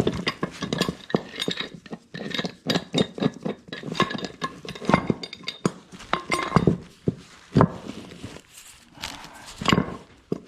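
Steel pipe and threaded fittings clinking and knocking against each other in irregular, short metal-on-metal hits with brief ringing, as a fitting is worked onto a doped pipe thread.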